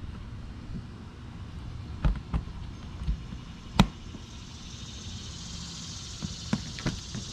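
Scattered knocks and clicks of handling while an engine bay is cleaned, a sharp knock the loudest just before four seconds in and a quick cluster of clicks near the end. From about five seconds in a steady hiss comes in over a low background hum.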